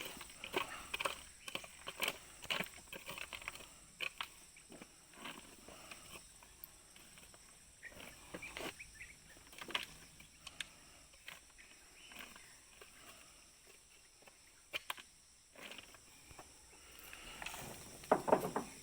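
Irregular knocks and rustling as oil palm fruit is gathered up and loaded by hand, with a few brief rough sounds.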